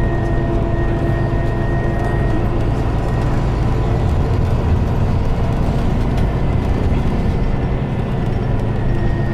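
Scania Citywide gas-powered city bus (K280UB chassis) running steadily: a deep engine rumble with a thin, steady whine above it.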